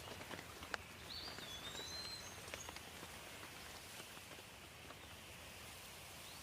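Light rain with scattered individual drops ticking over a soft hiss. A bird gives a few short whistled calls, mostly from about a second in.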